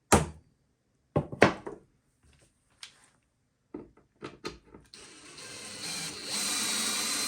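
A few sharp knocks and clicks of handling, then about two seconds from the end a cordless drill spins up and runs steadily, driving a screw to lock a wooden clamp lever.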